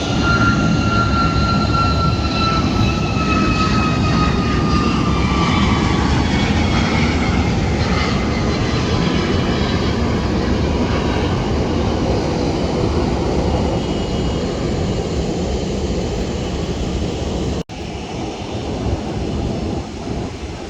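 Jet airliner's engines running loud as the plane passes, a steady roar with a high whine that slides slowly down in pitch. The sound cuts out for an instant near the end and comes back quieter.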